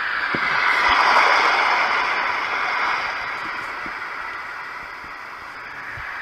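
Roffie N600 white noise sound machine playing one of its built-in sounds: a hiss of noise that swells during the first second and then slowly fades.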